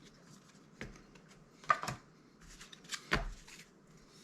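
Magic: The Gathering trading cards being handled and laid down, with several short, sharp slaps and clicks, the loudest about halfway through and again near three seconds in.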